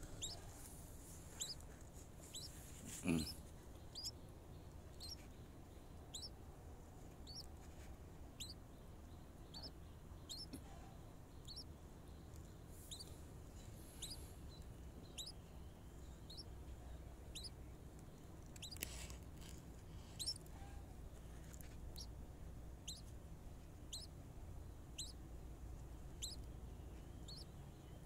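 A small bird's short high chirp, repeated about once a second. A handling thump about three seconds in and a brief rustle near the middle.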